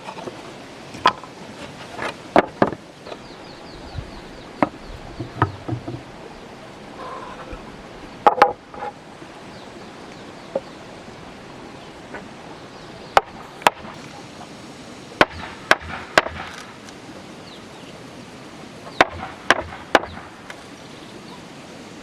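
Sharp, irregular blows of a tool striking wood, sometimes in quick pairs, spaced a second to several seconds apart over a steady outdoor background hiss.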